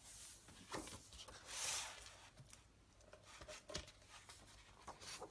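Paper pages of a book being turned and handled, with one swishing page turn about one and a half seconds in and a few light taps.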